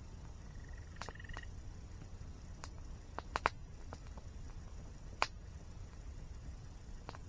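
Wood campfire crackling: sparse sharp pops, the loudest a pair about three and a half seconds in and another just past five seconds. Under them runs a steady low rumble of falling water from a waterfall.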